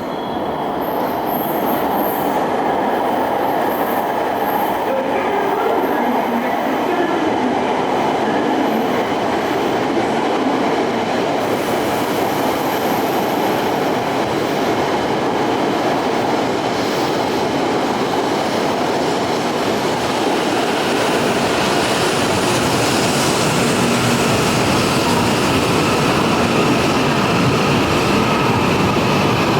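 E5 series Shinkansen train running slowly into the platform: a steady rush of wheels on rail, growing a little louder in the second half.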